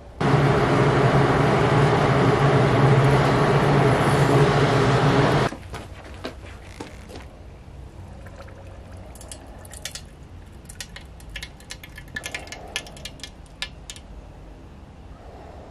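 Hot spring-steel knife blade being quenched in liquid: a loud sizzling, bubbling rush for about five seconds that cuts off suddenly, followed by scattered light clicks and clinks.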